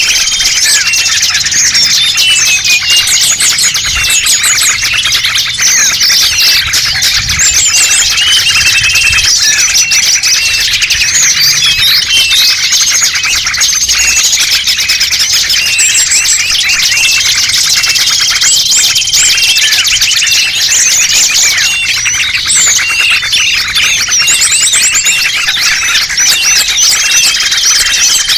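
A dense, continuous chorus of many small songbirds chirping and twittering over one another: a bird-lure (pikat) recording used to draw small wild birds in. A short steady whistle recurs about every nine seconds.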